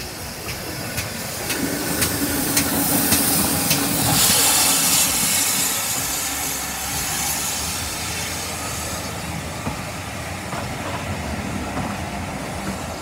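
Steam locomotive and its coaches passing slowly at close range: steam hissing, loudest about four seconds in, with a string of sharp clicks of wheels over rail joints in the first few seconds, then the coaches rolling by.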